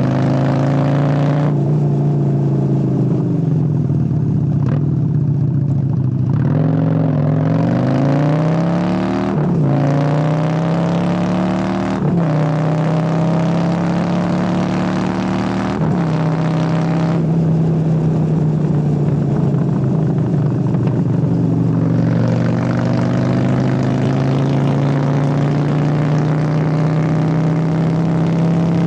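Honda Steed 600's V-twin engine under way: the revs drop as the bike slows, then it accelerates through the gears, with the engine note falling at each upshift about ten, twelve and sixteen seconds in. After that it cruises with the revs rising slowly.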